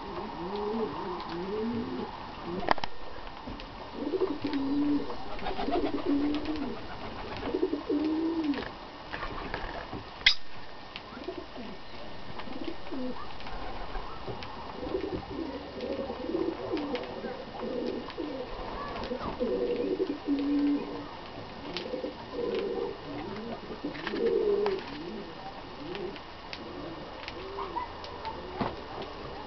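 Birds giving short, low calls that glide up and down, repeated over and over. A single sharp click about ten seconds in is the loudest sound.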